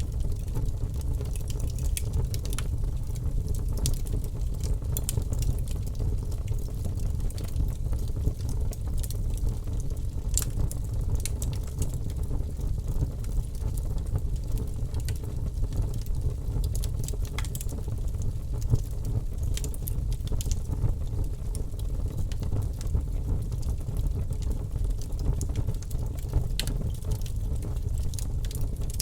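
Wood fire burning in an open fireplace: a steady low rumble of flame with scattered, irregular crackles and an occasional louder pop.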